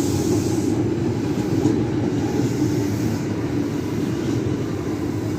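JR 205 series electric commuter train rolling into a station, with a steady noise of its wheels and running gear on the rails.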